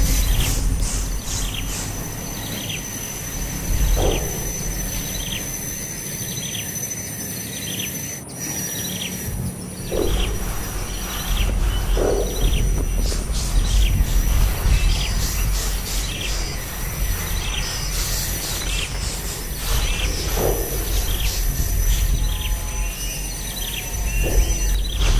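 Small birds chirping repeatedly in short calls, over a steady high-pitched insect drone.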